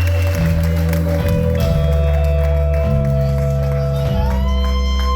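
Live band playing, with a heavy bass line stepping between notes under long held tones; a held note slides up about four seconds in.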